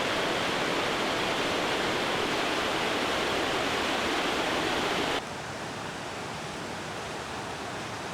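Steady rushing water noise, louder for the first five seconds, then dropping suddenly to a quieter even hiss.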